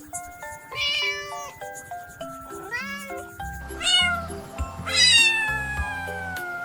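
A cat meowing several times, the last meow long and falling in pitch, over background music whose bass line comes in about halfway.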